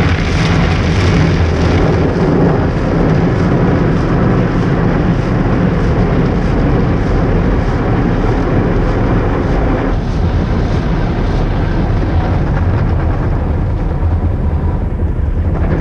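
Cloth brushes of a Coleman Hanna tunnel car wash scrubbing over the car, heard from inside the cabin as a loud, steady rumble and wash of noise.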